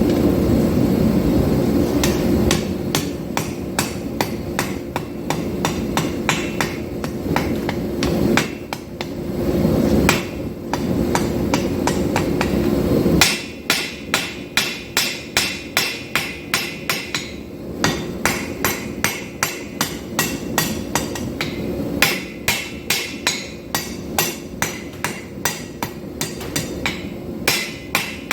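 A 2-pound hand hammer striking hot 5160 steel on an anvil in a steady rhythm of about three blows a second, drawing out a knife blade. A steady low roar underlies the first half of the blows and cuts off suddenly about halfway through.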